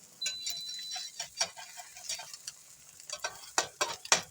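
Cheese omelette frying in a pan with a light sizzle, while a spatula scrapes and taps against the pan, the taps coming thicker and louder in the last second or so.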